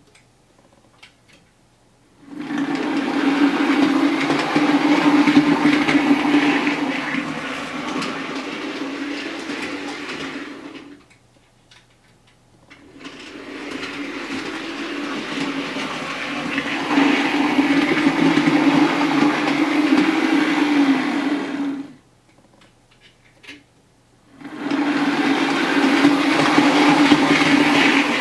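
Bachmann OO gauge Class 47 model diesel locomotive running on a model railway layout: a steady electric-motor hum with the wheels rattling over the rail joints. It comes in three stretches broken by short near-silent gaps.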